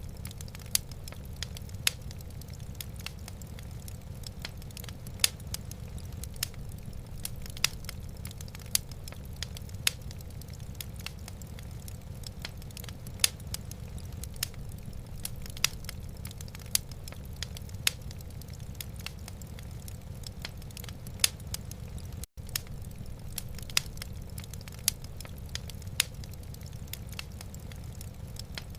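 Wood fire burning in a fireplace: irregular sharp crackles and pops from the logs over a steady low rumble. The sound drops out for an instant about two-thirds of the way through.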